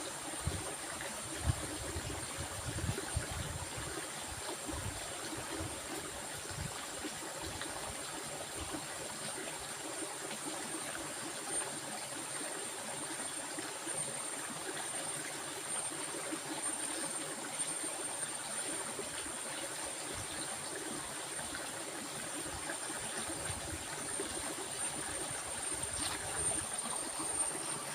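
A stream flowing steadily, with a constant high-pitched tone running above the water sound.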